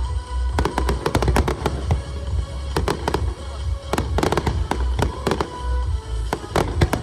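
Aerial fireworks bursting in rapid clusters of sharp bangs and crackles, over music played through loudspeakers.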